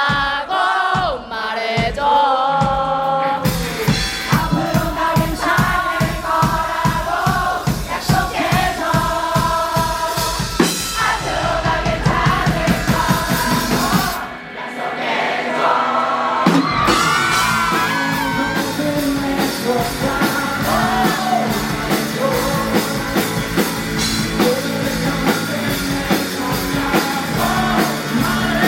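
Live rock band playing a song with a male lead vocal over drums, bass and guitars. About halfway through, the drums and bass drop out for a couple of seconds, then the full band comes back in.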